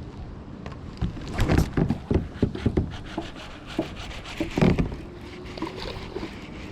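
Irregular knocks and rubbing against a fishing kayak's hull as gear is handled or the boat is shifted, clustered from about a second in to five seconds in, over a steady background of wind and water.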